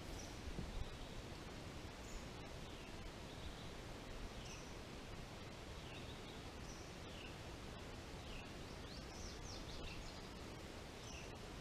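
Quiet, steady background hiss with a bird repeating a short, high, falling call about once a second.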